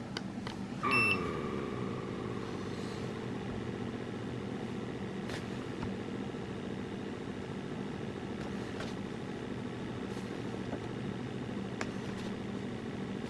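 A steady mechanical hum runs throughout, with a short electronic beep about a second in.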